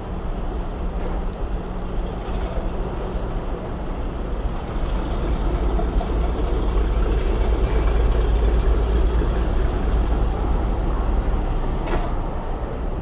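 A vehicle engine running with a steady low rumble, growing louder through the middle and easing off toward the end.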